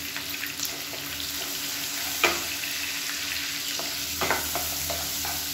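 Shallots sizzling steadily in hot oil in a nonstick pan while a wooden spatula stirs them, with scattered crackles. A single sharp knock about two seconds in, and a few more knocks near the end as the spatula works the pan.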